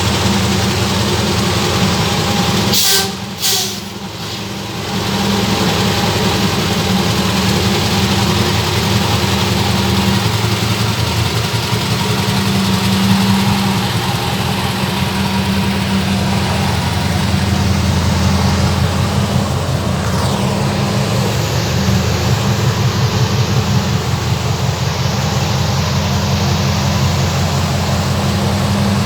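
Scania LK truck's V8 diesel engine running steadily with a deep, even rumble, briefly interrupted by a couple of sharp bursts about three seconds in.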